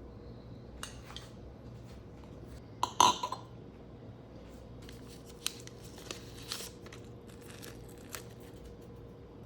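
Scattered clinks and clatters of dishes and utensils being handled, the loudest clatter about three seconds in, over a faint steady hum.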